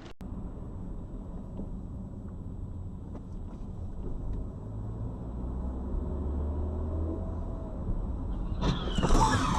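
Car driving, a steady low road and engine rumble that swells a little about halfway through. Near the end a sudden, louder noise comes in.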